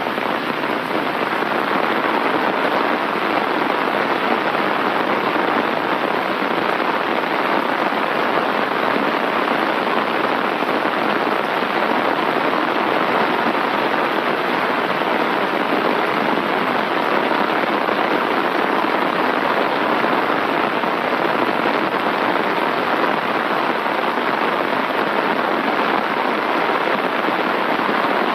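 Rain falling steadily on an umbrella overhead, a dense, even hiss with no breaks.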